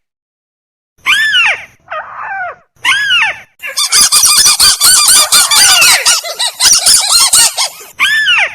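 Recorded crake (burung tikusan) calls played as a bird lure. Three separate arched calls come about a second apart, then about four seconds of rapid, repeated arched notes in a loud chatter, then one more single call near the end.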